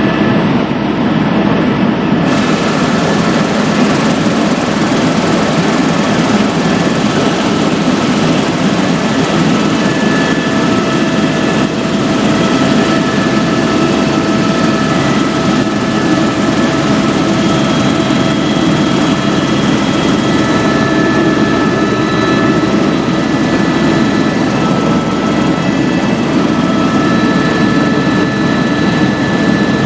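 Helicopter in flight heard from inside the cabin: a loud, steady drone of rotor and engine, with several thin high whining tones held level throughout.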